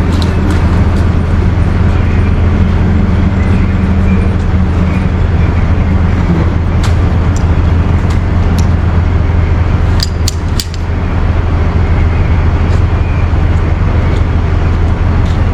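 Truck engine running steadily with a low, constant drone, with a few sharp clicks about halfway through.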